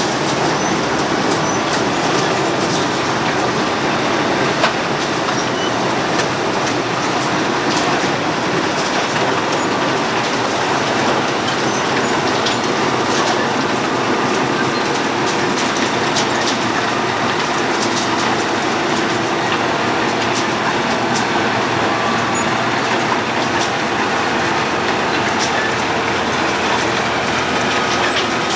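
Road planer (cold milling machine) running, its cutting drum grinding off the asphalt in a steady, loud, unbroken din with scattered sharp clicks and knocks.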